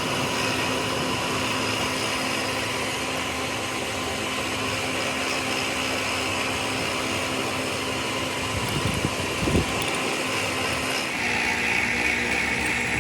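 A machine running steadily with a constant hum, a few knocks about nine seconds in, and a change in its pitch and level a little after that.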